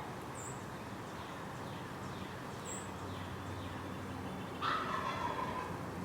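Outdoor yard ambience with two faint, very high chirps from small birds, then a louder harsh animal call lasting about a second, starting about three-quarters of the way in.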